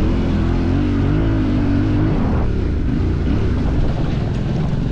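Off-road motorcycle engine running under throttle while riding, its pitch rising and falling as the throttle opens and closes, over a steady rush of noise.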